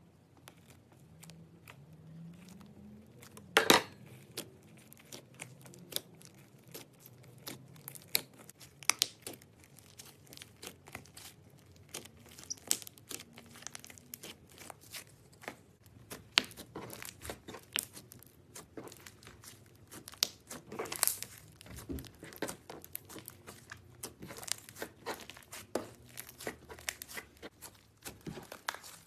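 Butter slime being pressed, poked and stretched by hand, giving a dense run of small sharp clicks and crackles, with one louder snap about three and a half seconds in.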